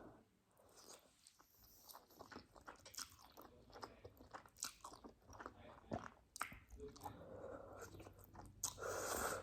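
A person chewing and slurping spicy instant ramen noodles: faint, irregular wet mouth clicks, with a longer, louder breathy noise near the end.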